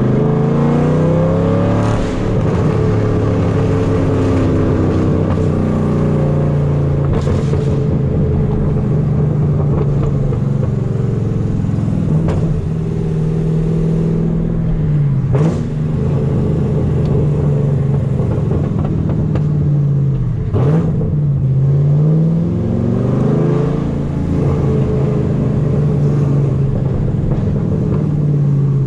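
Gen 5 Camaro SS's LS3 V8 through a loud exhaust with long-tube headers, heard from inside the car while driving. The engine note climbs under acceleration, holds steady, then drops and climbs again several times, with a few short sharp cracks.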